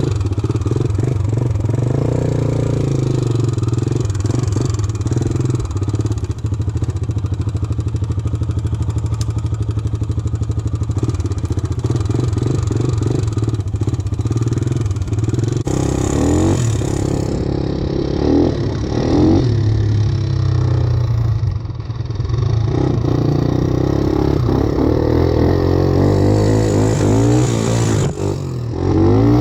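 Satoh S650G tractor's engine running under way, the tractor put in reverse; steady for about the first half, then revved up and down several times.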